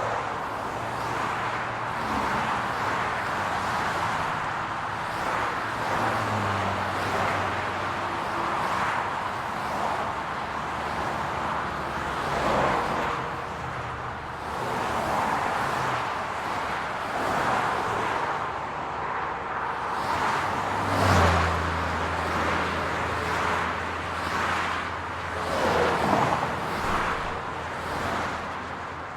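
City road traffic: a steady hum of tyres and engines, with cars passing by. The louder passes, each with a low engine hum, come about two-thirds of the way through and again near the end.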